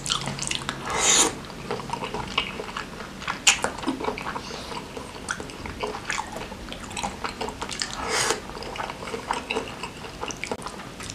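Close-up chewing of soft, tender beef tetelan in chilli sauce: a stream of wet smacking and clicking mouth sounds, with a few louder smacks.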